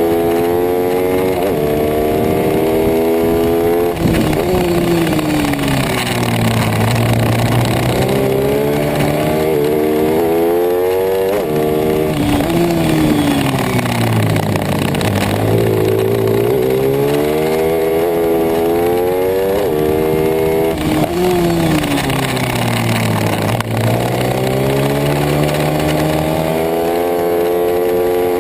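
Racing pit bike's single-cylinder engine revving high, then dropping sharply and winding down to low revs before pulling back up, three times, about every eight to nine seconds: hard acceleration out of corners and backing off for the next bend.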